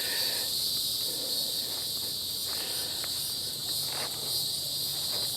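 Steady high-pitched chorus of insects, with a few faint rustles and ticks.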